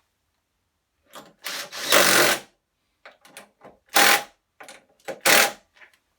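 Power tool running in short bursts, a long one about two seconds in and two brief ones near four and five seconds, with light clicks of metal parts and tools in between.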